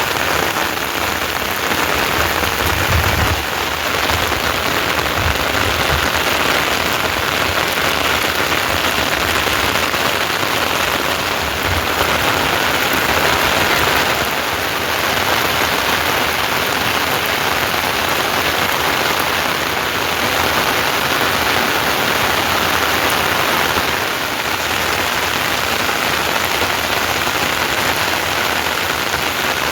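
Steady, heavy rain falling, a dense even hiss.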